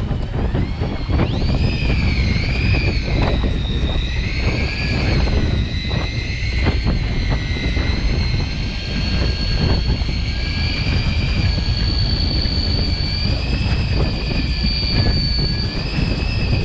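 Fishing boat's engine running under way, a steady low rumble with a high whine that wavers a little in pitch, mixed with wind and water rush.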